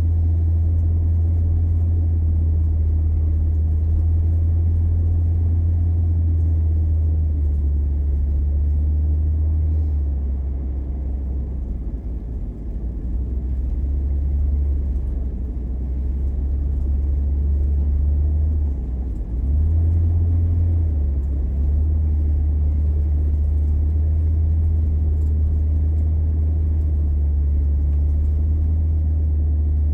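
Car driving, a steady low rumble of engine and road noise heard from inside the cabin, dipping briefly a couple of times.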